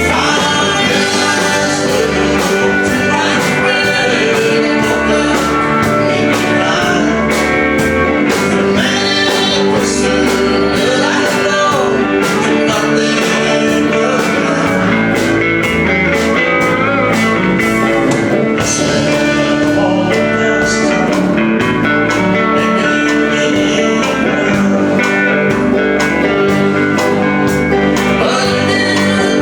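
Live country band playing a song, guitar to the fore over a steady beat.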